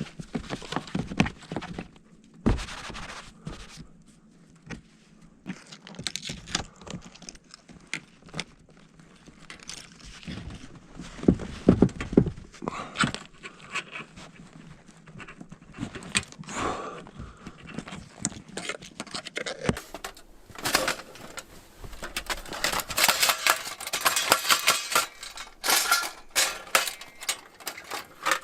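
Irregular knocks, clicks and rustling of camping gear being handled while a rooftop tent is packed up, with a denser run of rapid clicking and scraping about two-thirds of the way through.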